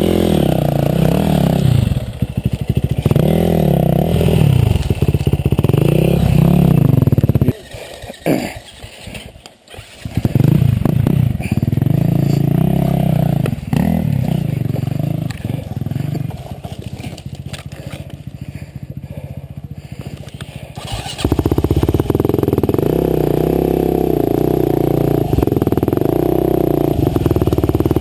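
Husqvarna TE511 single-cylinder four-stroke dirt bike engine revving up and falling back again and again on the throttle. About a third of the way in it drops away almost to nothing for a couple of seconds before picking up, runs quieter for a stretch, then comes back louder near the end.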